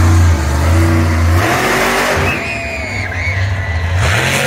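Monster truck engine revving hard, dropping off the throttle about a second and a half in, then picking up again near the end.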